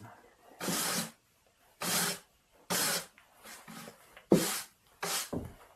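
Short scraping strokes on snow and ice, five of them, each under half a second and unevenly spaced.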